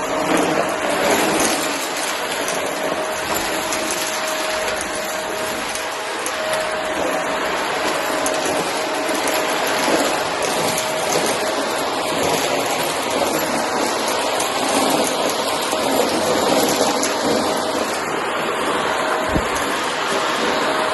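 Shark vacuum cleaner running steadily, a constant motor whine over rushing air, with occasional clicks and a knock near the end as cardboard debris is sucked up.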